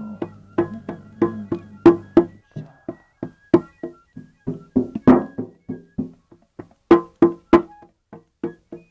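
Hand percussion played live in a quick, even rhythm of sharp struck notes, each with a short pitched ring, about three to four strokes a second. A low sustained drone sounds under the strokes for the first couple of seconds, then stops.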